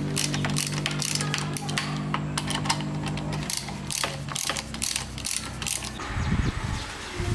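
Quick clicks and ratcheting of hand tools working on metal, with a steady hum under them that stops about halfway through. A low rumble comes in near the end.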